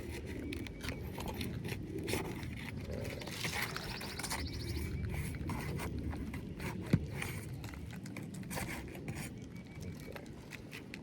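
Asphalt roof shingles being pried loose from their sealant strip: scraping and crackling as the stuck tabs are worked apart, with one sharp snap about seven seconds in.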